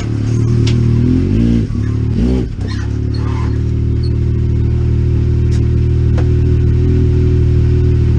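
A vehicle engine running, its revs shifting briefly about two seconds in and then settling to a steady run, with a few sharp clicks over it.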